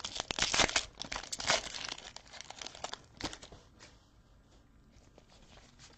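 Foil trading-card pack wrapper crinkling and tearing as it is opened by hand, dense for the first two seconds or so, with a sharp click about three seconds in, then only faint handling.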